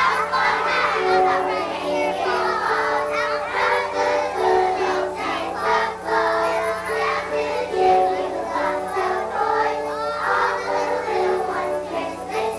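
A choir of young children singing, with a musical accompaniment holding steady notes underneath.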